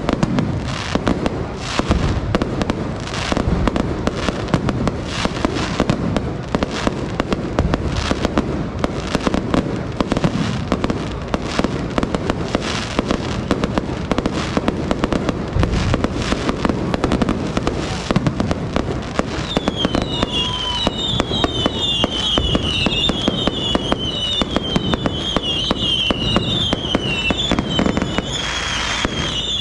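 Fireworks display going off: a dense, continuous run of bangs and crackling bursts. About two-thirds of the way through, a high warbling whistle joins in and keeps going.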